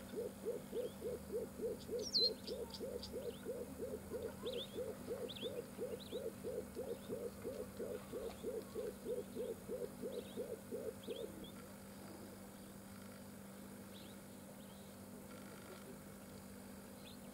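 A bird calling a long series of low, evenly spaced hooting notes, about three a second, which stops about eleven seconds in.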